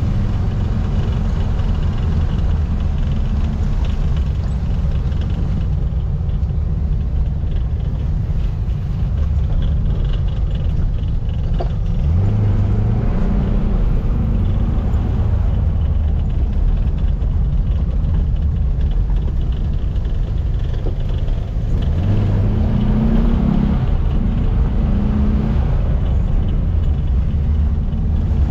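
1700cc air-cooled flat-four engine of a VW Baja Bug running under way, with the revs climbing through the gears near the middle and again about three-quarters through.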